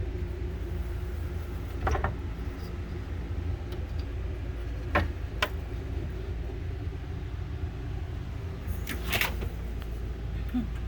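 Steady low mechanical hum, with a few sharp knocks or clicks: one about two seconds in, two around five seconds, and a cluster near nine seconds.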